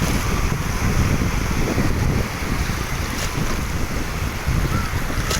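Wind buffeting the microphone: a steady, rumbling noise.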